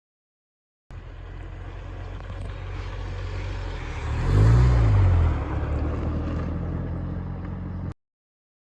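Car engine running, with one rev that rises and falls in pitch and grows louder about four seconds in. It starts and cuts off abruptly.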